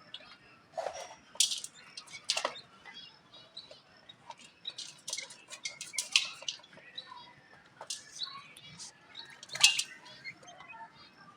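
Birds making short, sharp chirps in irregular clusters, a few much louder than the rest, the loudest about three-quarters of the way through.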